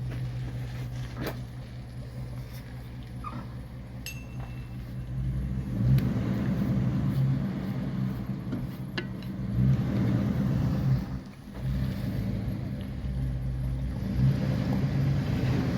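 A 1994 Dodge Ram half-ton's 318 V8 pulling the truck along on a test drive of the rebuilt 9.25 differential, with no whine from the differential. The engine note builds about six seconds in, drops away briefly past the middle, then picks up again.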